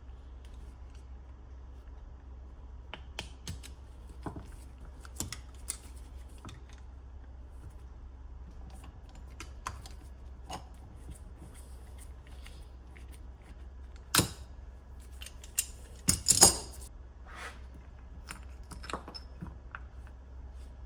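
Tools and small metal parts being handled: scattered light clicks and taps, with a few louder clatters about two-thirds of the way through, over a steady low hum.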